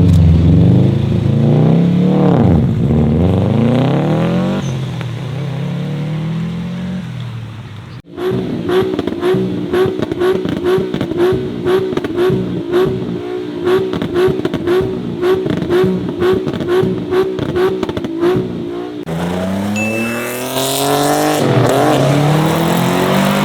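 Modified car engines with loud exhausts: an engine revving up and down, then, after a sudden cut, a steady rhythm of sharp exhaust pops about two a second over a held engine note for about ten seconds, then revving again near the end.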